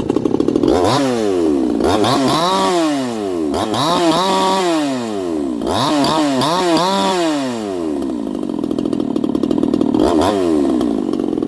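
58cc Chinese two-stroke chainsaw revved up from idle about six times, the pitch sweeping up and back down on each blip, a few held briefly at high revs, then settling back to a steady idle for the last few seconds.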